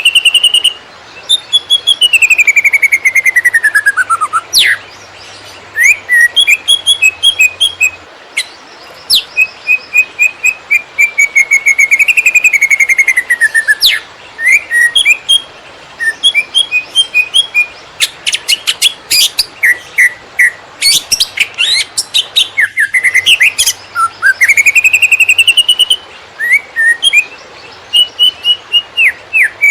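Cucak ijo (green leafbird) singing without pause in varied phrases: long falling whistled slides, quick runs of short repeated chirps, and fast high trills.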